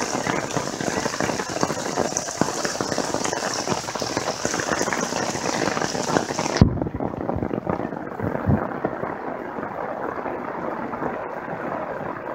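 Heavy rain pouring down in a steady hiss. About halfway through, the high part of the hiss drops away abruptly and a duller wash of rain carries on, with a couple of low thumps.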